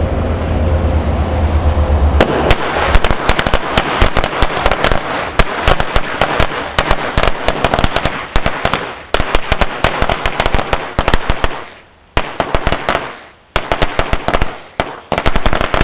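A string of firecrackers going off in a rapid, continuous chain of sharp bangs, starting about two seconds in. Near the end the bangs break off briefly twice and pick up again.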